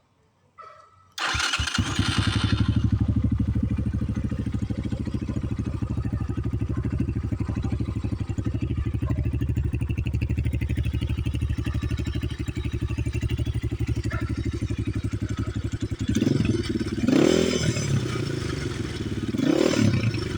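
Dirt bike engine starting about a second in, catching at once and settling into a steady fast idle. Near the end the throttle is blipped twice, the pitch rising and falling each time.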